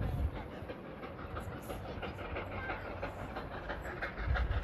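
Train approaching along the track: a steady rumble with a rapid, regular clatter, the low rumble swelling again near the end.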